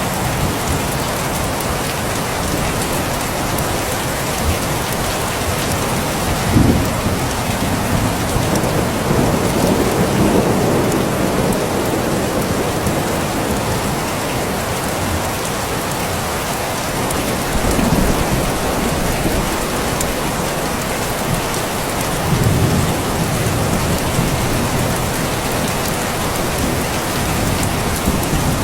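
Steady heavy rain, with low rolls of thunder swelling up several times.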